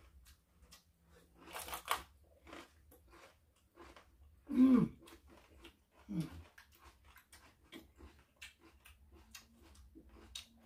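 Crisp bites and chewing of raw vegetables, among them a crunchy green pepper: a run of small crunching clicks, with a louder crunch about two seconds in. A person's voice makes two short falling hums about four and a half and six seconds in.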